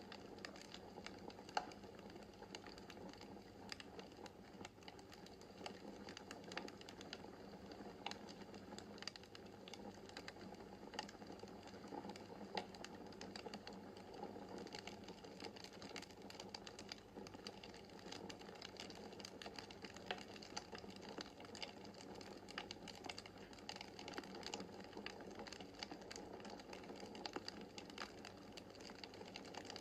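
Wood fire crackling in a fireplace: a steady soft rush of flame with dense small crackles and an occasional sharper pop.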